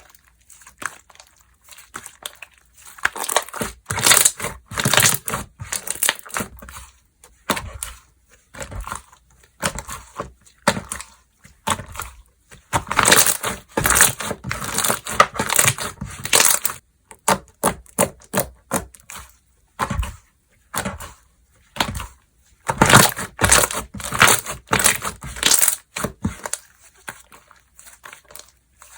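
Slime being squeezed and pressed in the hands, giving crisp crackling and popping clicks. The clicks come in three dense bursts of a few seconds each, with scattered single pops and short quiet gaps between them.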